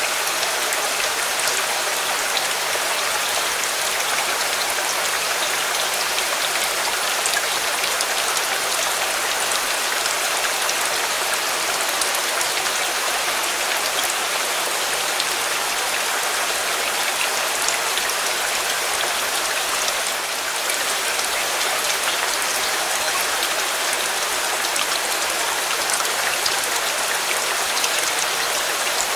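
Steady rain falling on a surface: an even, unbroken hiss sprinkled with sharp drop ticks.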